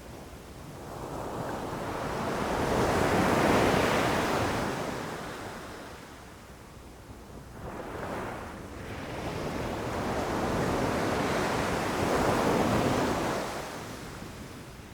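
Ocean waves rushing in and washing back. One wave builds to a peak about three seconds in and dies away, a small surge follows near the middle, and then a second, longer wave builds and fades near the end.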